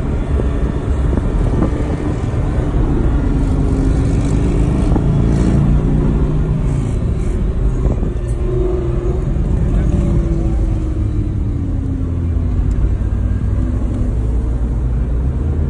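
Audi R8 V10's engine running under way with road rumble, its pitch rising and falling as the car changes speed.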